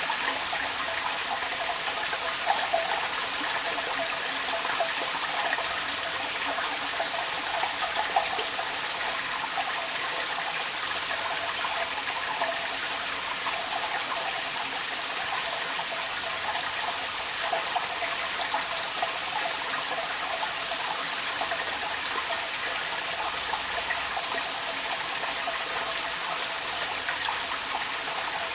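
Rainwater running out of a downpipe, a steady splashing trickle, with rain falling around it.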